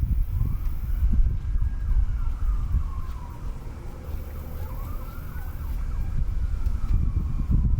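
A faint siren wailing, its pitch slowly rising and falling, under a loud, uneven low rumble on the microphone.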